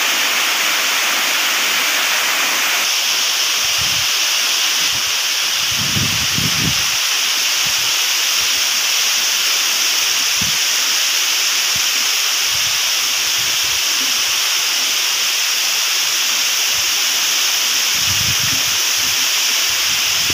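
Steady, loud hiss of heavy monsoon rain and runoff cascading off a rock face and down stone steps. A few brief low bumps break in here and there.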